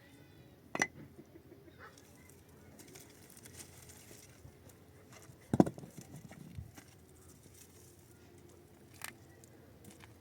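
Three scattered sharp knocks or clatters over a faint background: one under a second in, the loudest about halfway through, and a lighter one near the end.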